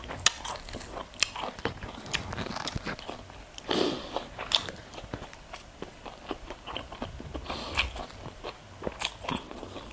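Close-miked chewing of crunchy chicharon bulaklak (deep-fried pork intestine), with many sharp, irregular crunches.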